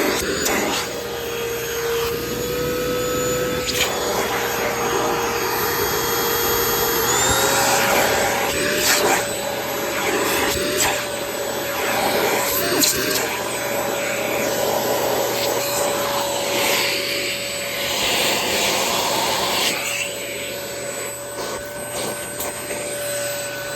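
Euro-Pro X stick vacuum running with its hose in use: a steady motor whine whose pitch steps up slightly about seven seconds in, with a few short clicks and knocks.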